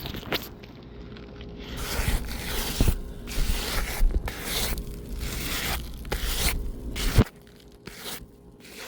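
Repeated scraping strokes across the surface of an asphalt roof shingle, about two a second, knocking its granules loose to simulate years of wind wear; a sharp knock ends the scraping.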